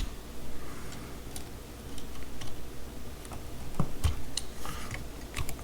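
Irregular light clicks and taps from hands working electrical wires and a wall outlet or switch.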